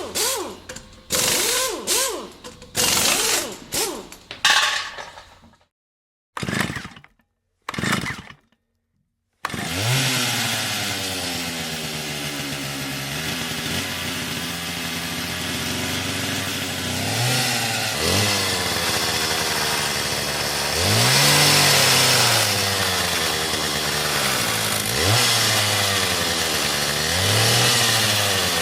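A run of short separate bursts of sound with gaps between them. Then, about a third of the way in, a chainsaw engine starts running steadily and is revved up and let back down about five times.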